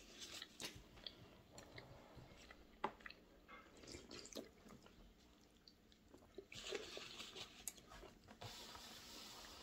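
Faint chewing and small mouth sounds of someone eating scrambled eggs, with scattered soft clicks and a couple of brief rustles.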